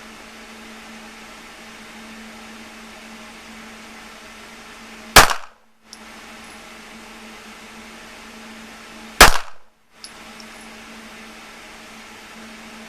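Two pistol shots about four seconds apart, slow aimed fire, over a steady low hum.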